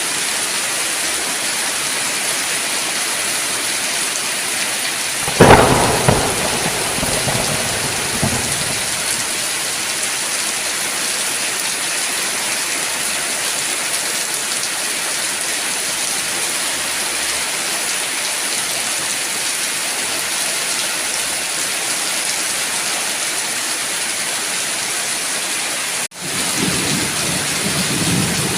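Heavy rain falling steadily, with a sharp thunderclap about five seconds in that rumbles away over the next few seconds. Near the end the sound cuts out for an instant, then low thunder rumbles again under the rain.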